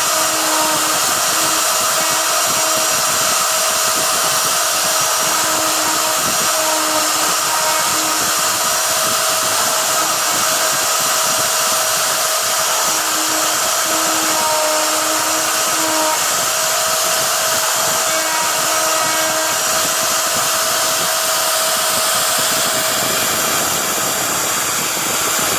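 CNC sign router running a job: the router spindle whirs steadily and loudly, with a lower tone that comes and goes as the machine moves.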